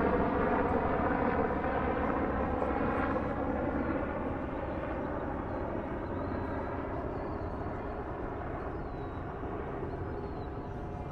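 An aircraft engine passing by and fading away, a steady droning hum that grows steadily fainter.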